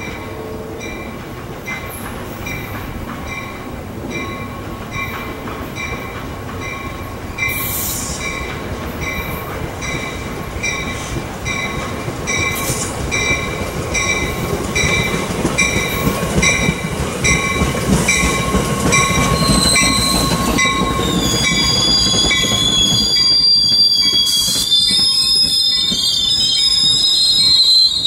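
NJ Transit commuter train approaching and passing. A bell rings steadily and rhythmically while the rumble of the train grows. Then the bell stops and the coaches roll past with high-pitched wheel squeal.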